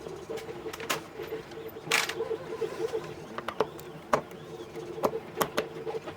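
Irregular sharp clicks and knocks from small parts and tools being handled on a pinball playfield during disassembly, the loudest about two seconds in, over a steady, wavering low hum.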